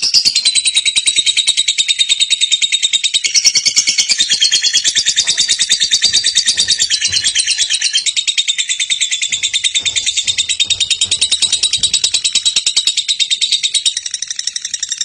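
Lovebird singing a long, unbroken 'ngekek': a rapid, high-pitched chattering trill made of many quick pulses a second.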